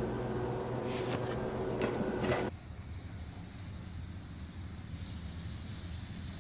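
A small motor's steady hum, with a few light knocks, that cuts off about two and a half seconds in and leaves a faint low rumble.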